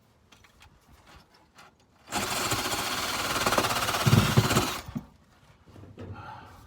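Electric drill run in reverse against rusty metal underneath a car, scouring off surface rust in one burst of just under three seconds, starting about two seconds in.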